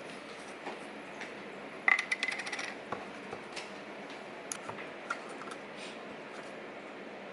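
A small metal object dropped onto a hard surface: one sharp ringing clink about two seconds in, then a quick run of bounces that fade out within a second. Light scattered clicks and taps of handling follow.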